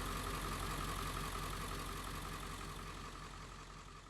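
Engine running steadily, with a steady whine over a broad rush, slowly fading out toward the end.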